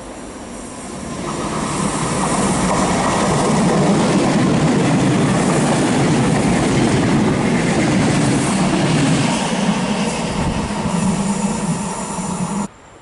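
Intercity passenger train passing close by at speed after leaving a tunnel: a rumble of wheels on rail that builds over the first two seconds and stays loud, then cuts off suddenly near the end.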